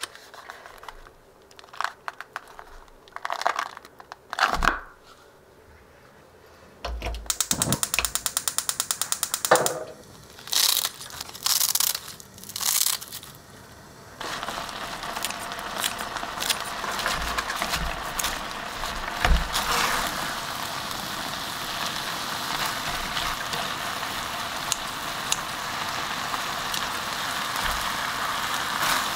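Scattered knocks and clicks of cooking handling, with a quick run of even clicks early on. Then, about halfway in, a steady sizzle starts as dakgalbi and rice fry in the pot, with the odd utensil knock over it.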